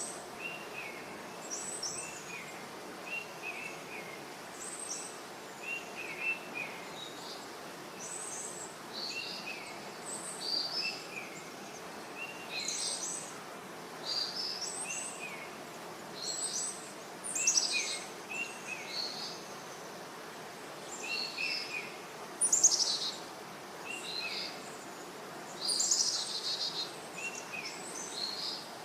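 Songbirds calling, more than one kind: a falling two-note call repeats every second or two, mixed with higher chirps. Three louder trills come about two-thirds of the way in and near the end. A steady low background noise runs underneath.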